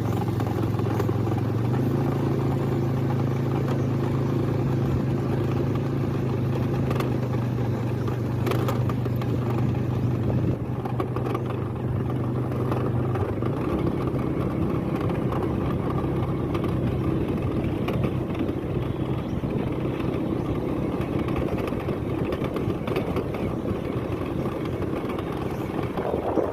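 A motor vehicle's engine running at a steady speed, with a steady hum that gives way about halfway through to a rougher, even rumble with occasional knocks.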